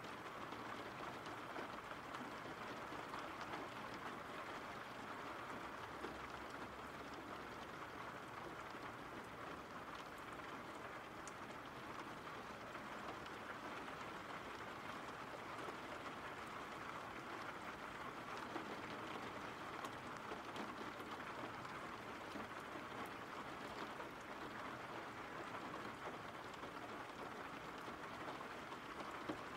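Steady rain falling, a continuous rain ambience with faint scattered drop ticks.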